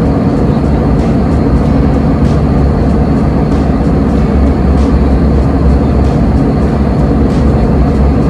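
Steady, loud rumble of an airliner's engines and airflow as heard from inside the passenger cabin.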